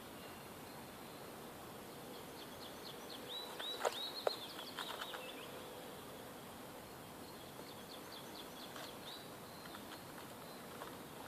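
Quiet forest ambience in which a small songbird gives a quick series of short chirps about three seconds in, and a shorter run near the end. Two sharp clicks come about four seconds in.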